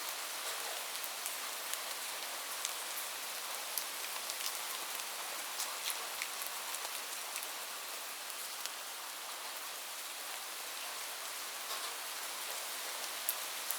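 Steady rain falling, a continuous hiss with scattered sharp drop ticks striking a surface.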